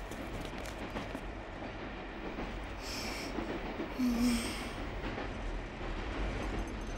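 Train running on the rails: a steady rumble, with two short hisses about three and four seconds in.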